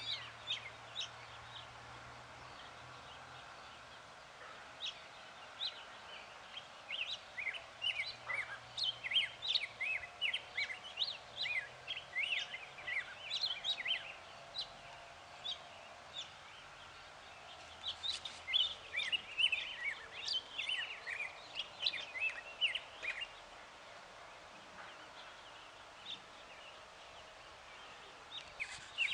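Small birds chirping: many short, quick calls in busy clusters, with a couple of quieter lulls of a few seconds.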